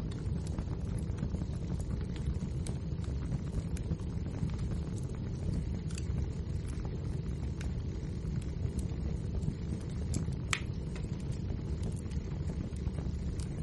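Wood fire burning in a fireplace: a steady low rumble of the flames with frequent small crackles, and one sharper crack about ten seconds in.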